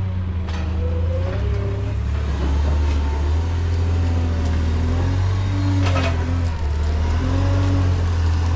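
Engine running with a loud, steady low drone and fainter tones wavering up and down above it. There is a sharp knock about six seconds in.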